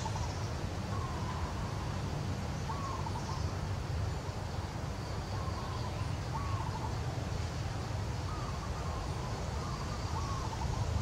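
A bird chirping in the background: short, wavering calls repeated about every one to two seconds, over a steady low rumble.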